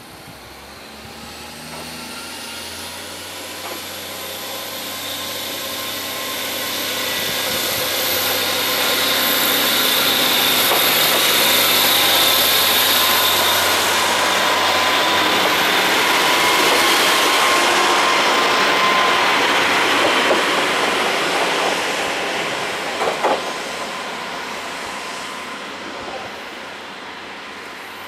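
A passenger train pulling out of the station and running past. Its whine rises in pitch as it picks up speed, grows loud over about ten seconds, then fades as it draws away, with a couple of short knocks from the wheels late on.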